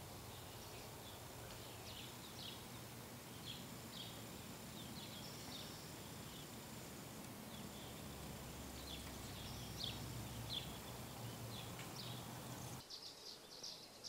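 Faint garden ambience with wild birds chirping in short, scattered calls over a light hiss. Near the end the hiss drops away and a denser, higher twittering takes over.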